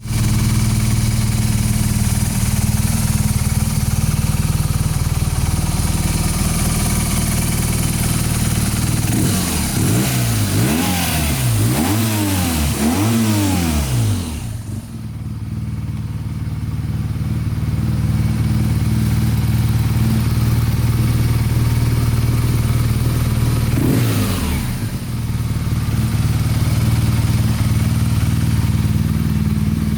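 BMW R1200GS Rallye's boxer-twin engine idling steadily. It is revved about four times in quick succession roughly a third of the way in, then blipped once more briefly later on.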